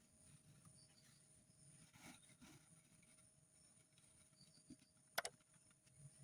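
Near silence with faint background hiss, broken about five seconds in by a short, sharp double click or knock.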